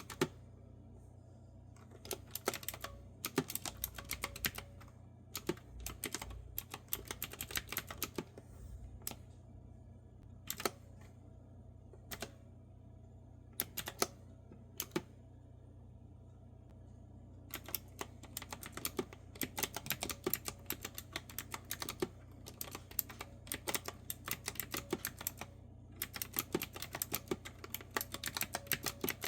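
Clicky retro-style round-key keyboard being typed on, in bursts of rapid key clicks broken by short pauses with only a few isolated keystrokes. A faint steady low hum sits underneath.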